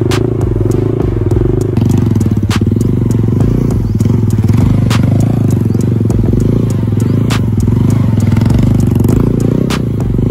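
TVS Apache 160's single-cylinder engine running at fairly steady revs while the bike is held up in a wheelie. A sharp click recurs about every two and a half seconds.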